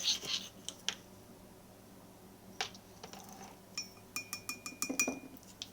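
A spoon clinking and tapping against a mug while sugar is spooned in: a scatter of light clinks, with a quick run of taps about four seconds in, one of which rings on for about a second.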